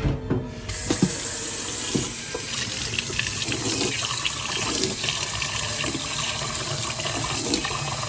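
Water running from a tap into a sink, starting about a second in, with splashing throughout.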